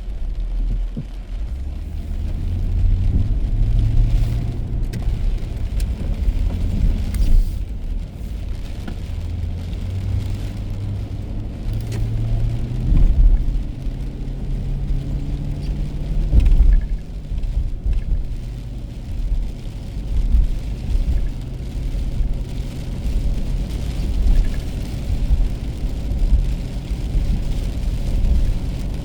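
Car being driven: a steady low rumble of engine and tyres on the road, with a pitch that shifts up and down in steps and a few brief thumps.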